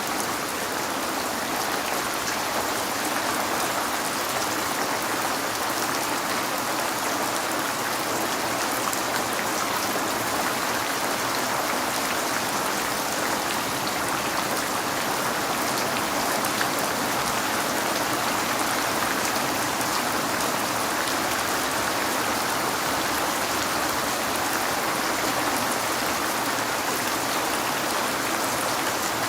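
Steady rain falling on a window pane: an even, unbroken hiss of rainfall with many fine drop taps.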